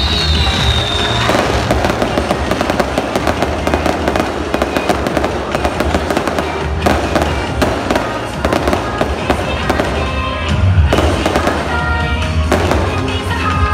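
Victory fireworks going off in dense, rapid crackling bursts, over loud music with a steady bass line.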